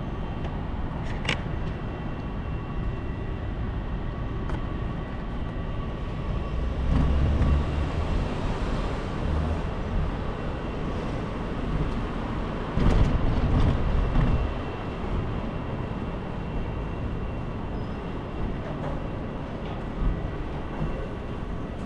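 Steady rumbling street noise from riding a bicycle through city traffic. It swells louder twice, about seven and about thirteen seconds in.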